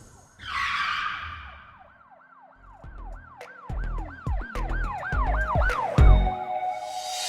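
Produced intro sound effect: a whoosh, then a run of siren-like swooping electronic tones rising and falling about three times a second, over deep bass thumps that build toward the end.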